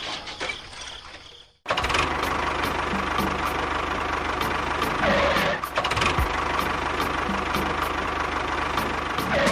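A motor running steadily with a fast, even knocking pulse. It starts abruptly after a brief gap of silence about a second and a half in.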